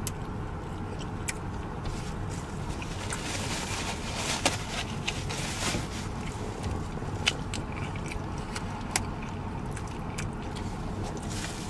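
A person chewing food with soft mouth sounds and a few sharp clicks, over a steady low hum in a car's cabin.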